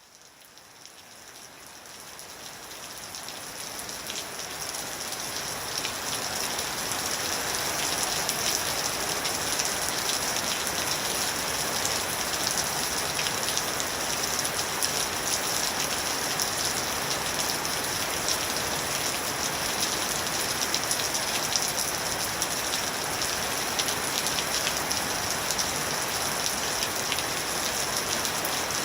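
Steady rain falling, with many fine individual drop ticks; it fades in over the first several seconds and then holds steady.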